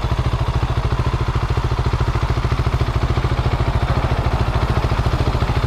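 Husqvarna 701 Supermoto's single-cylinder engine idling steadily, an even rapid pulse of about a dozen beats a second.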